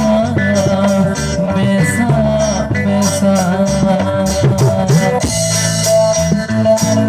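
Kecimol band playing a song: a voice carrying a wavering melody over electric bass and a steadily beating drum kit.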